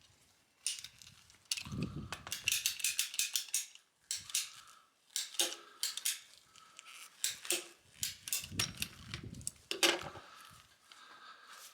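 Small hard metal and plastic parts clinking and clattering as they are handled: an irregular run of sharp clicks, some with a brief metallic ring, loudest near the end.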